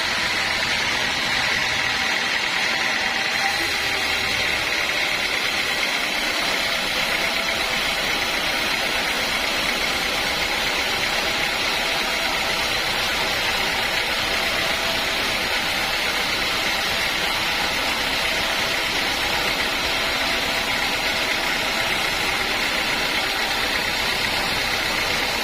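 Sawmill machinery running steadily, with a constant high whine over a dense mechanical noise.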